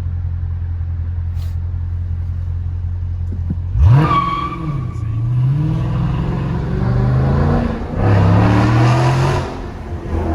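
Dodge 392 HEMI V8 idling, then suddenly revved hard about four seconds in. It accelerates at full throttle, its pitch climbing and dropping back at each upshift, and lets off near the end.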